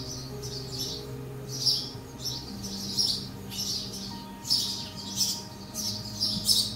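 Birds chirping: short, high chirps repeating about twice a second.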